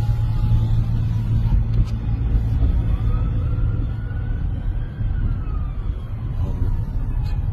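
A distant emergency-vehicle siren in one slow wail, rising over the first few seconds and falling back near the end, over a steady low rumble of road traffic.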